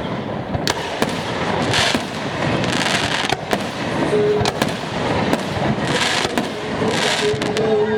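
Fireworks display going off: a rapid, continuous barrage of bangs and crackling, with hissing bursts now and then.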